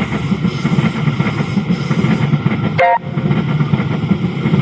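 Passenger train running past, a steady loud rumble of wheels and engine. About three seconds in it is broken by a brief dropout carrying a short tone.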